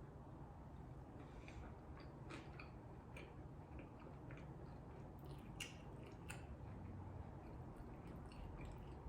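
A person chewing a mouthful of carne asada burrito, faint, with scattered small mouth clicks and a few sharper ones past the middle.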